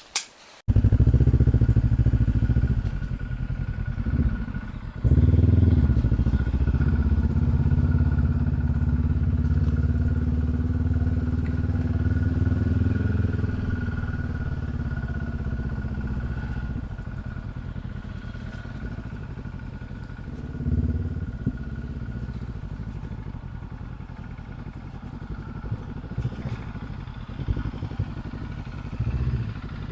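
Dual-sport adventure motorcycle engine running on a dirt trail. It cuts in suddenly just under a second in, revs up about five seconds in, then settles to a steadier run that slowly gets quieter.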